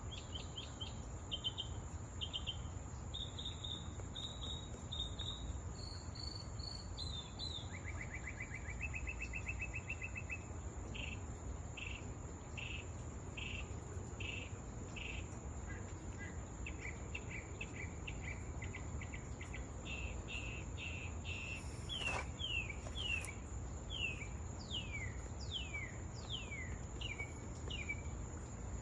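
Songbirds singing in a run of short repeated chirps and trills, with notes that slide downward near the end. A steady high-pitched whine and a low background rumble run underneath, and there is a single sharp click about three-quarters of the way through.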